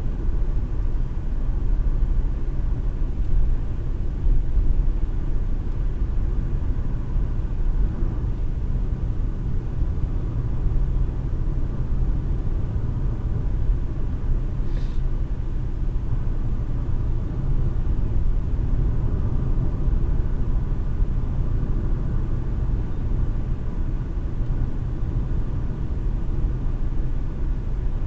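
Steady low road and engine rumble of a car driving at a constant pace, heard from inside the cabin through a dash cam's microphone. There is a short hiss about halfway through.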